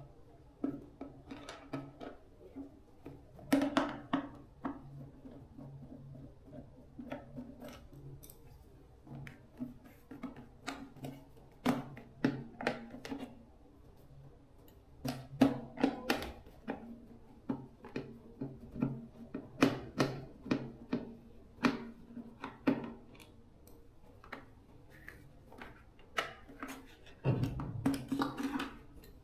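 Irregular clicks, knocks and scrapes of hand work on metal parts, sometimes in quick runs, over a faint low hum.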